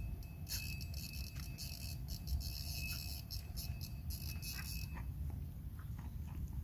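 Insects chirring in a high, dense buzz with a thin steady whine in it, stopping about five seconds in, over a steady low rumble.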